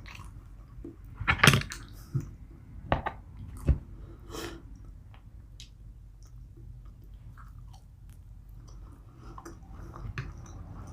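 A person chewing and biting food, with a few sharp crunchy bites in the first few seconds, then softer, quieter chewing.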